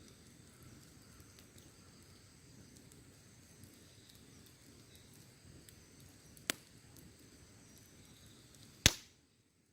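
Campfire wood burning with faint, scattered crackles, a sharp pop about six and a half seconds in and a much louder pop near the end, after which the sound cuts out abruptly.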